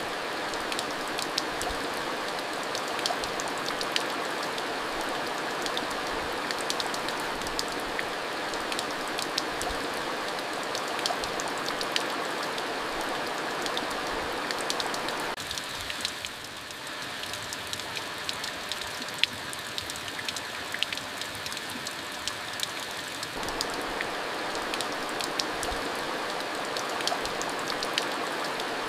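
Steady rain falling, with many separate drop hits audible over the continuous wash. It grows somewhat softer for several seconds around the middle, then returns to its earlier strength.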